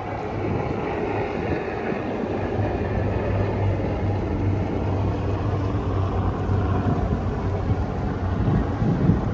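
A low, steady engine hum over a wash of outdoor noise, easing off near the end.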